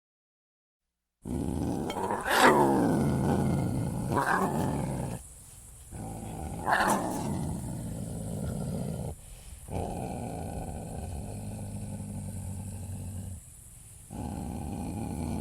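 Leopard growling and snarling in a harsh, rasping run, with two loudest snarls about two and seven seconds in.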